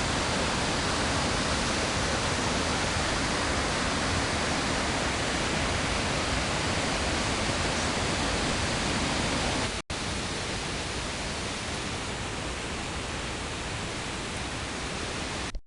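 Steady, dense hiss of rushing water, like a waterfall or rapids, with no changes in pitch. It breaks off briefly about ten seconds in, at a cut, and comes back slightly quieter.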